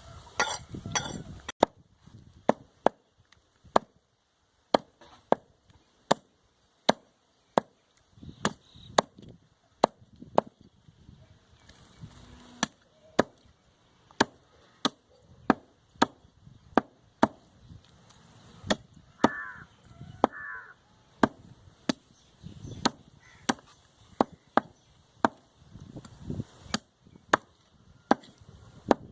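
Cleaver chopping goat meat on a wooden block: sharp, steady strokes about two a second, with a few short pauses.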